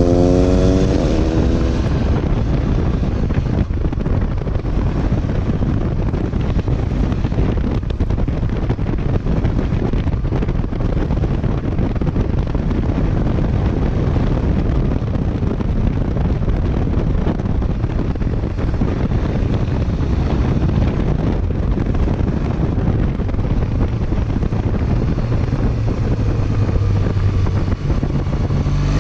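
Wind rushing over the microphone on a moving Triumph Bonneville, mostly covering its parallel-twin engine. The engine is heard rising in pitch right at the start, and its note comes through again near the end.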